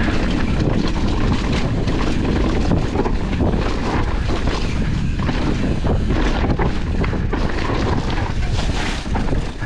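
Wind buffeting the microphone of a chest-mounted camera on a downhill mountain bike riding fast, with rumbling tyres and many quick knocks and rattles from the bike over rough ground.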